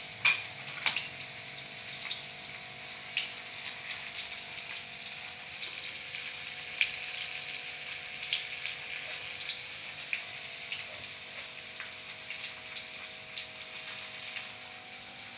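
Chopped chili spice mix frying in hot oil in a wok on a gas stove: a steady sizzle with many small crackles and pops. A couple of sharper knocks come in the first second.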